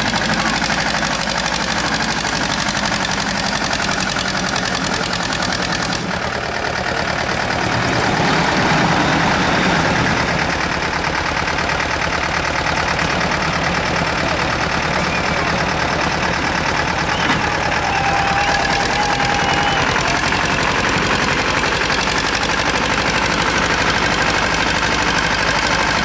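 Tractor engine running steadily under load, the note changing abruptly about six seconds in and growing a little louder around eight to ten seconds.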